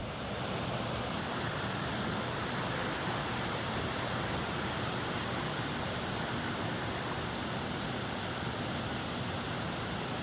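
Steady rushing of flowing river water, an even hiss with no rise or fall.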